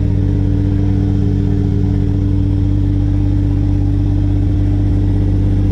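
Toyota 1JZ VVTi 2.5-litre inline-six idling steadily, heard from inside the car's cabin.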